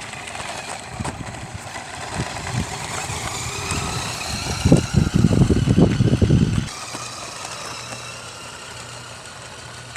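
Electric motor and gears of a New Bright radio-controlled toy car driving along, with a rising whine, louder rumbling for its last couple of seconds, then cutting off suddenly about two-thirds of the way through; a faint steady hum follows.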